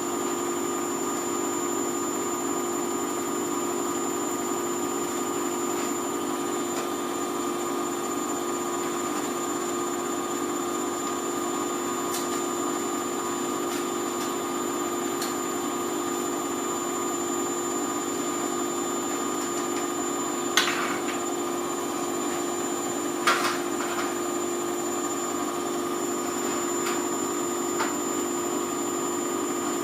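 Hoover Vision Tech front-loading washing machine spinning its drum at a steady speed, its motor giving an even whine with a thin high-pitched tone on top, late in a Mixed 40°C cycle. A few short clicks or knocks come through about two-thirds of the way in and near the end.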